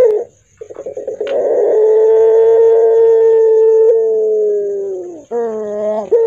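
Puter pelung dove cooing in a hoarse voice: one long drawn-out coo held for about four seconds, sliding down at its end, then a short coo that rises and falls near the end.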